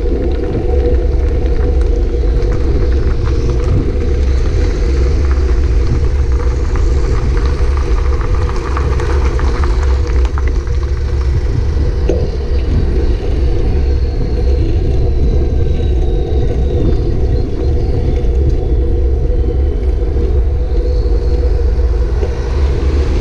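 Steady wind noise buffeting the microphone of a camera on a moving bicycle, with road and traffic noise beneath it.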